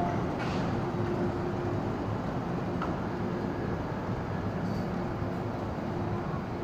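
MTR Island Line M-Train electric multiple unit running, a steady hum over an even rumble of rail noise.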